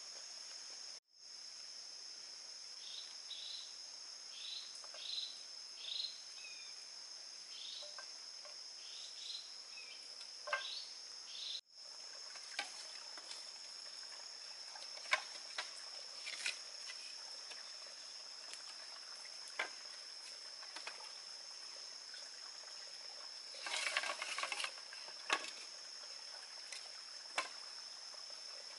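A steady, high-pitched insect chorus of crickets or cicadas runs throughout and cuts out for an instant twice. Over it comes a run of short, quick chirps, each falling in pitch, for the first ten seconds or so. After that there are scattered sharp clicks and knocks, with a denser patch of them about 24 seconds in.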